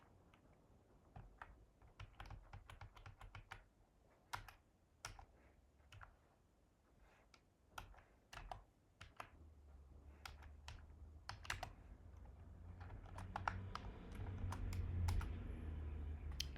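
Typing on a computer keyboard: irregular keystrokes in quick runs with short pauses. A low hum grows louder in the second half.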